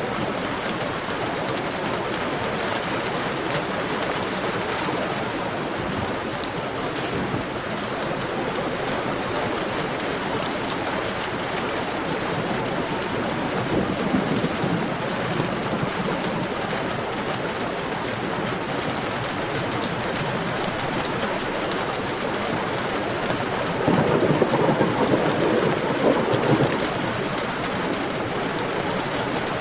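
Heavy rain falling steadily, with a low rumble of thunder swelling up about three-quarters of the way through and a fainter one near the middle.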